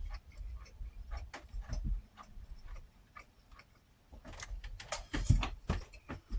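Close-up eating sounds while working through a plate of fried fish and rice: irregular clicks, smacks and taps of chewing and utensils, with a louder knock about five seconds in.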